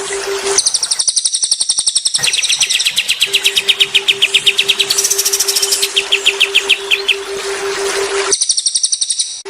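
Songbird singing rapid, high-pitched trills of quickly repeated notes, in abruptly spliced sections of a bird-song training recording. A steady low hum runs under some sections.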